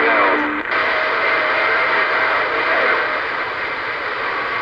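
CB radio receiver hiss and static on the band, with faint steady heterodyne whistles. The noise changes abruptly about half a second in.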